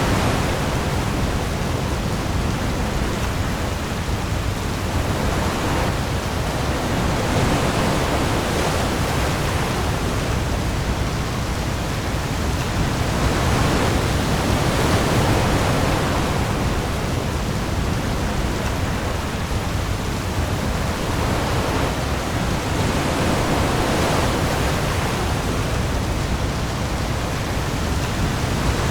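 Heavy rain pouring onto the sea amid storm waves: a dense, steady hiss that swells and eases every several seconds, over a low rumble.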